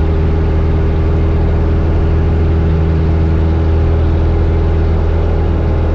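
A 1972 Cessna 172's four-cylinder Lycoming engine and propeller drone steadily at takeoff power on the takeoff roll, heard from inside the cabin.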